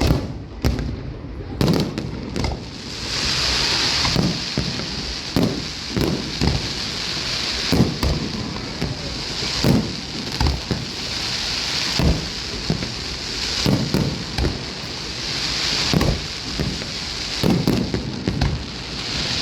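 Fireworks display: shells bursting in irregular, overlapping bangs over a continuous crackle of sparkling effects, with the crackling swelling several times.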